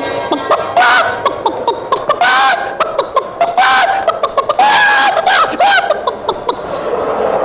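A man imitating a hen: about five drawn-out, arching cackles with quick short clucks between them.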